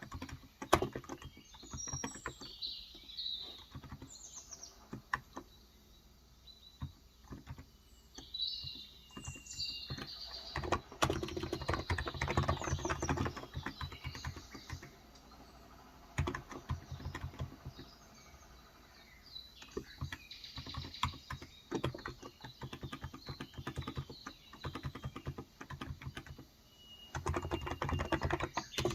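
Typing on a Cox Endeavor 35 g tenkeyless electro-capacitive (Topre-style) keyboard, keystrokes coming in uneven bursts with pauses between them. Small birds chirp now and then in the background.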